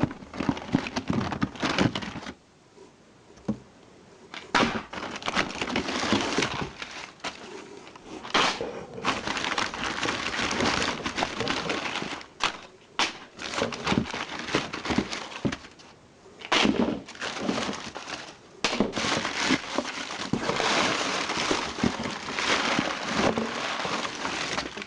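Packing paper and plastic wrapping crinkling and rustling as items are unwrapped by hand, with scattered sharp clicks, pausing briefly twice.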